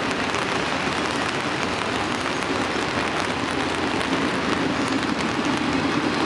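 Steady hiss of heavy rain mixed with the low rumble of an autorack freight train's cars rolling past.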